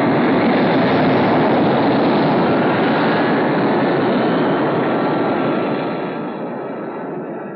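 Aircraft engine noise from a film soundtrack: a loud, even rushing sound that swells in at the start and slowly dies away over the last couple of seconds.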